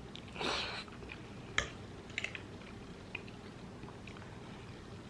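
Close-miked eating sounds from a person chewing food: a short rushing sound about half a second in, then a few sharp clicks and soft mouth sounds.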